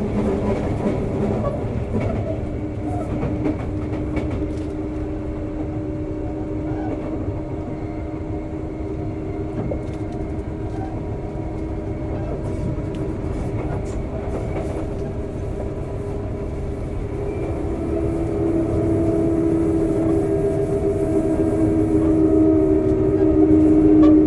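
Sotetsu 9000 series electric train running, heard from on board: a continuous rumble of wheels on rail with scattered clicks. Over it sits a steady hum of several tones from the Hitachi IGBT VVVF inverter and traction motors, which grows louder over the last several seconds.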